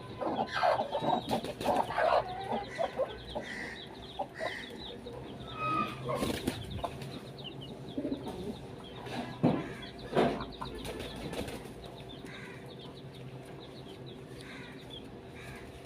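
A flock of domestic pigeons at close range: wings flapping and clapping, short cooing and grunting calls, and scuffling as the birds jostle, busiest in the first few seconds and again around the middle, settling after that.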